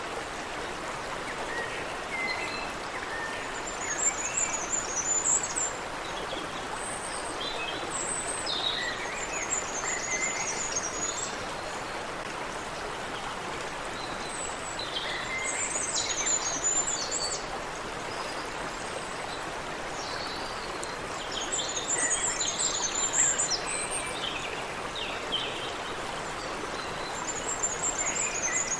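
Steady rush of water running in a creek, with several birds chirping and twittering over it; high trilled phrases come in bursts every few seconds.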